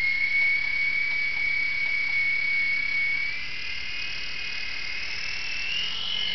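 Small electric motors and rotors of a toy RC helicopter spinning with a steady high whine. The pitch climbs higher a little past halfway as the throttle is raised.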